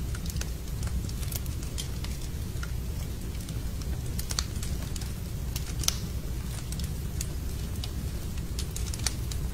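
Wood fire burning in a fireplace: a steady low rumble of the flames with scattered sharp crackles and pops, the loudest pop about six seconds in.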